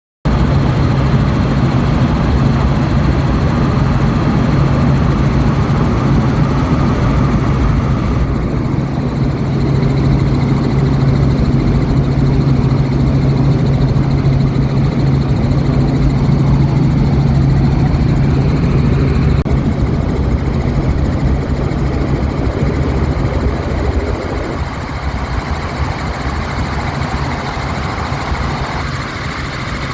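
Helicopter cabin noise on a doors-off flight: the steady drone of the engine and rotor with a constant low hum, under wind rushing past the microphone. It starts abruptly, and the sound shifts suddenly a few times, with a slightly quieter stretch near the end.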